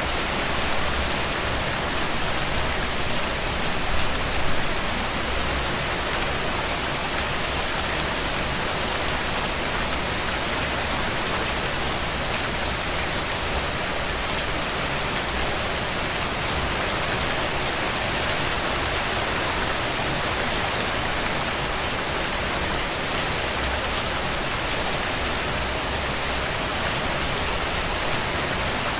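Steady rain pattering on a tent, a dense even hiss with fine drop ticks and a low rumble underneath.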